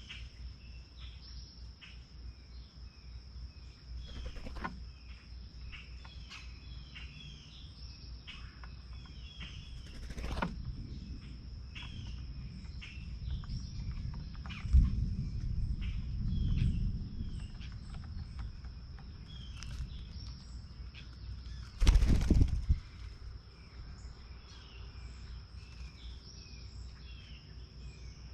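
Small songbirds chirping in short calls again and again over a steady high-pitched insect drone. Low rumbling swells come in around the middle, and about two-thirds of the way through there is one loud whoosh lasting about a second.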